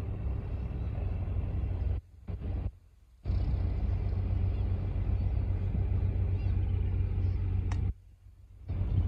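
Low rumble of a squid-fishing boat's engine as the boat heads out of harbour. It drops away abruptly about two seconds in and again near the end.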